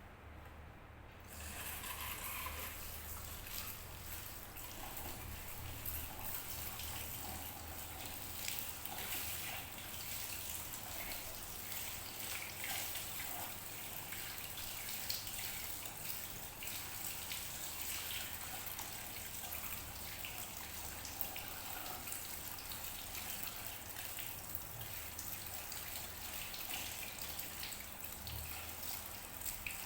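Water running and spattering, switched on suddenly about a second in and then flowing steadily with irregular splashes.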